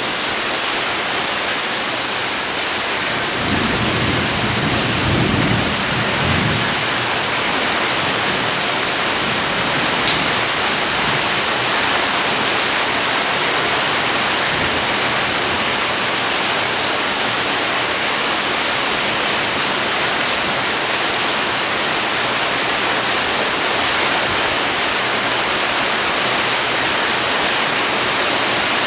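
Heavy rain falling steadily, an even hiss. About four seconds in, a low rumble swells for a few seconds and fades.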